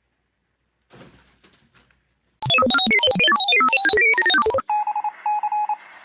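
A short electronic ringtone-like melody of quick notes jumping up and down, about two seconds long. It is followed by a mid-pitched electronic tone that beeps several times.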